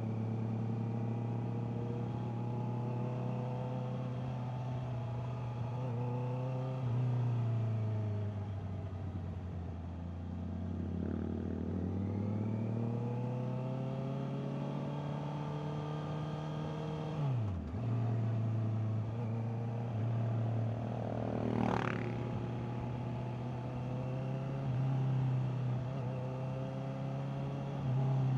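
Honda CBR650R's inline four-cylinder engine under way on a ride. The engine note falls and stays low for a few seconds, then climbs steadily as the bike accelerates. It drops sharply at a gear change or roll-off, then settles into a steady cruise.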